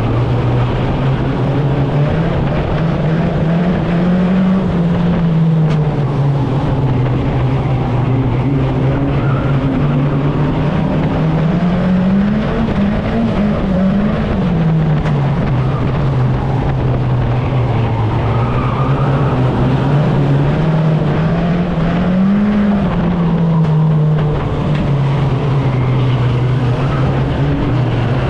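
A 2-litre banger racing car's engine heard from inside its stripped cabin, running hard and rising and falling in pitch as the driver accelerates and lifts, with three clear rises.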